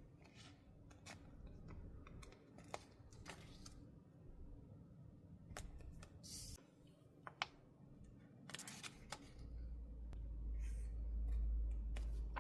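Close-up paper-and-stationery handling on a desk: scattered small clicks and rustles, with a low rumble in the last few seconds that is the loudest sound.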